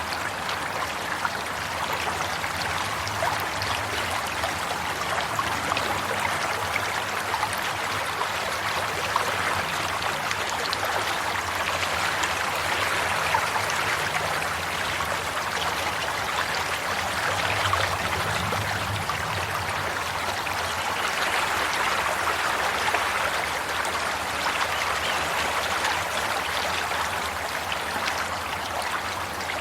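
Running water flowing steadily, an even rushing and trickling that swells slightly now and then.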